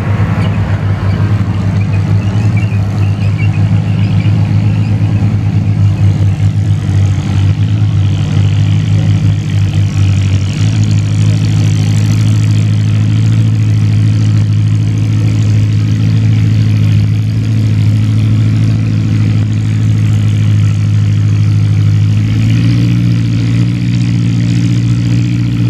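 Antique farm tractor engine running loud and steady; its note changes about ten seconds in and climbs slightly near the end as the engine speeds up.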